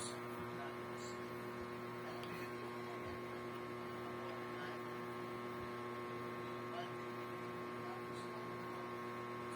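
Steady electrical hum made of several steady tones at once, with a few faint clicks.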